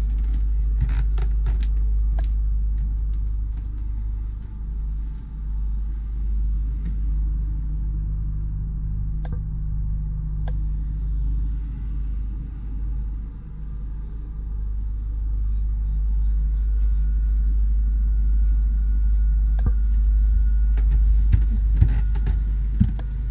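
Steady low rumble and hum of a motor yacht's onboard machinery, with a few light clicks and knocks near the start and near the end.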